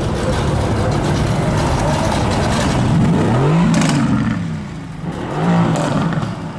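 Sports car engine revving and accelerating hard: the pitch climbs and drops around the middle, then rises and falls again more briefly near the end.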